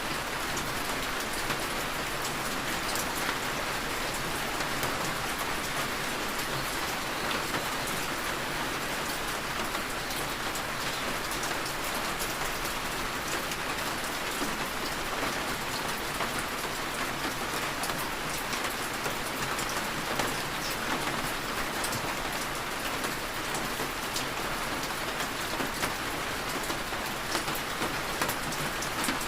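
Steady heavy rain falling and pattering on surfaces, with many fine drop ticks.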